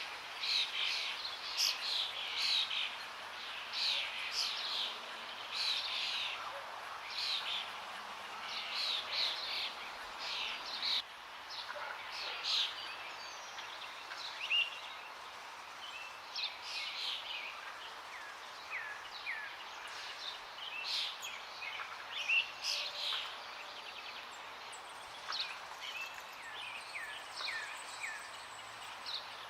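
Many forest songbirds chirping and trilling, thickest in the first half and thinning to short quick chirps later, over the steady rush of running water.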